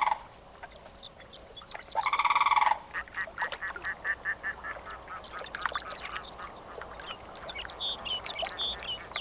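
Sandhill crane calling: one loud call of under a second about two seconds in, then a run of short, clipped calls, with some higher chirps near the end.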